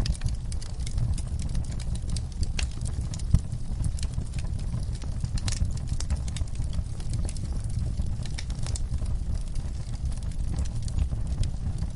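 Wood fire burning in a fireplace: irregular crackles and snaps over a steady low rumble.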